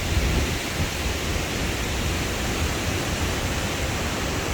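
Waterfall's steady rushing hiss, with an uneven low rumble underneath.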